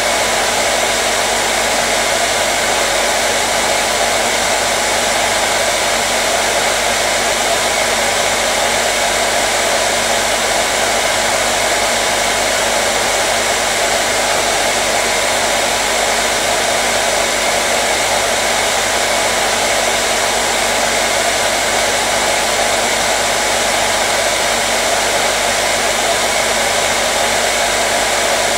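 Hair dryer running continuously at a steady speed: an even, loud blowing hiss with a constant motor hum, unchanging throughout.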